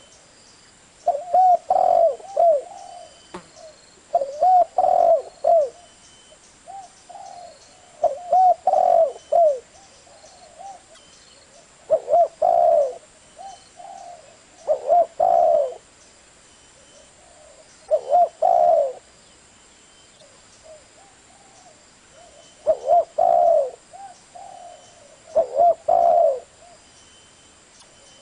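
Spotted dove cooing: short phrases of several coos each, repeated about every three seconds with pauses between, around eight phrases in all.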